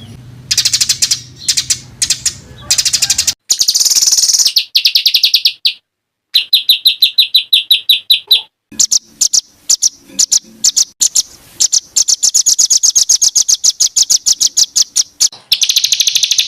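Small songbirds singing bird-tutor ('masteran') song: harsh, rapid-fire runs of repeated high notes, the dense 'tembakan' phrases used to tutor contest songbirds. Several different recorded trills follow one another, switching abruptly every few seconds.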